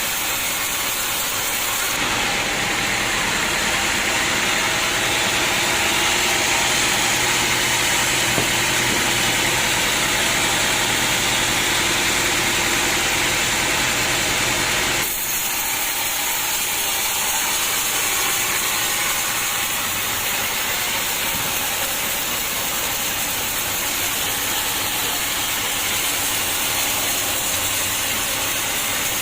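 Sawmill machinery running with a steady, hissing noise, changing abruptly about 2 seconds in and again about 15 seconds in.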